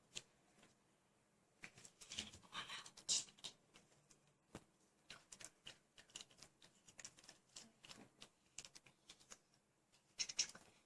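Faint, irregular small clicks, taps and scrapes of hands working pieces of plasticine, with a brief burst of scraping about two to three seconds in.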